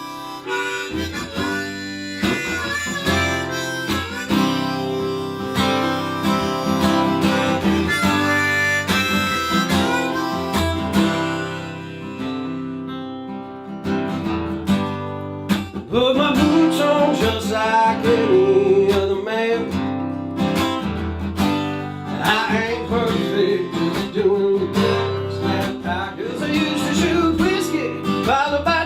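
Harmonica playing a melody over strummed acoustic guitar. Around 13 seconds in the music briefly drops, and from about 16 seconds it comes back louder with a wavering lead line.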